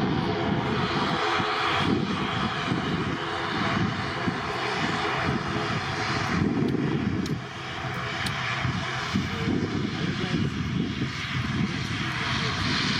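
Airplane engine noise: a steady roar with a rumbling low end, dipping briefly a little past halfway.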